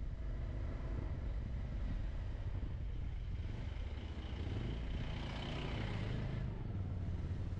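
Motorcycle engine running steadily while riding, with wind rumble on the microphone.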